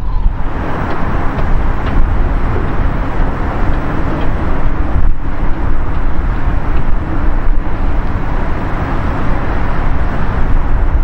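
Jet airliner engine noise, a loud steady rumble with a strong deep low end.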